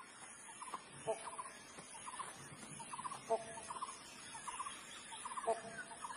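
Birds calling faintly. A short call repeats about every two seconds, between quick trilled notes, over a steady high hiss.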